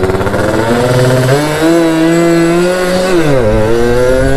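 Yamaha F1ZR's single-cylinder two-stroke engine revving hard under full throttle. The pitch climbs, holds high, drops sharply about three seconds in and climbs again. The rider puts the flare down to slipping clutch plates.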